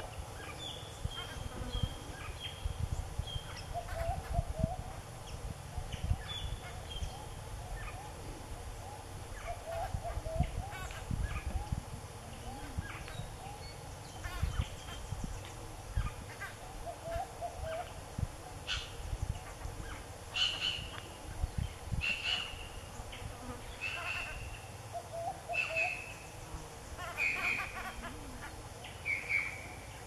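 Wild birds calling in forest: a short low warbling phrase repeats every few seconds. From a little past halfway a higher, clear call joins in and repeats about every one and a half to two seconds. A low, uneven rumble runs underneath.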